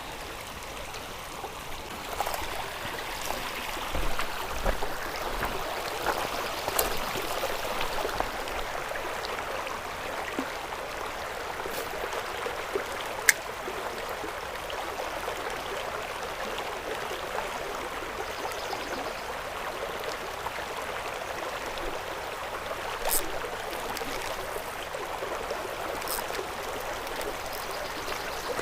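A small creek flowing steadily over rocks, with a few short sharp clicks now and then.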